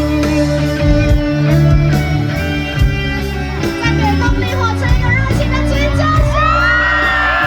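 Live rock band playing the loud outro of a song, with a steady heavy bass and sustained guitar and keyboard chords, and shouts and yells from the audience over it.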